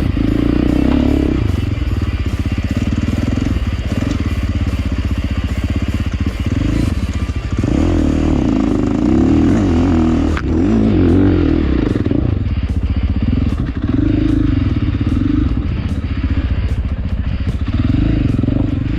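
A 450cc single-cylinder four-stroke dirt bike engine running under load on an off-road ride. Its note rises and falls repeatedly as the throttle is worked.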